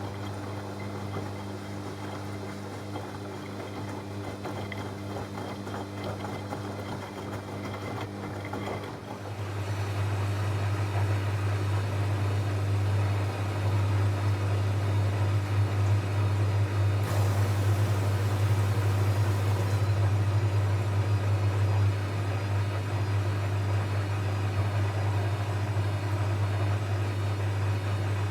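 Techwood WB 91042I washing machine running: a steady motor hum that grows clearly louder about nine seconds in, with a brief hiss a few seconds past the middle.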